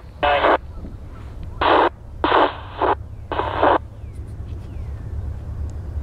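Railroad scanner radio giving four short bursts of static and garbled transmission in the first four seconds, each cut off sharply, with a low steady rumble underneath.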